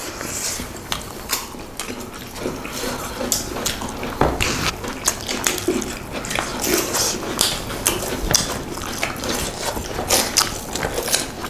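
Close-miked eating sounds: chewing, lip-smacking and wet squelching as several people eat pork curry and rice by hand, in a steady run of short, sharp smacks and clicks.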